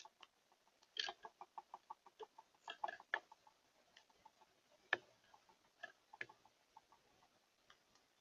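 A bird giving a quick, even run of short calls, about eight a second, then scattered single calls and clicks; faint.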